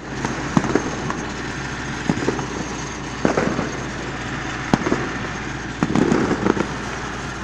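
New Year fireworks going off: a series of sharp bangs at irregular intervals, with a quick cluster of them about six seconds in, over a steady background rumble.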